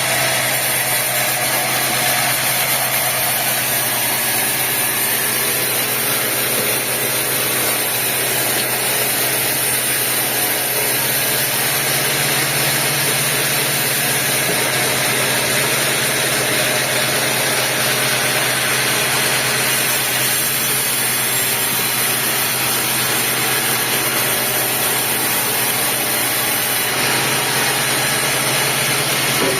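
Sawmill machinery running steadily: an even engine-like hum with a broad hiss over it, unchanging throughout.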